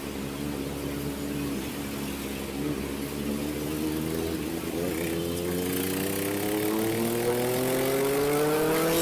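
Kawasaki ZX-4RR's inline-four engine through an SC Project exhaust, running at a steady speed, then after a short wobble about halfway through its revs climb smoothly as the bike accelerates, growing louder.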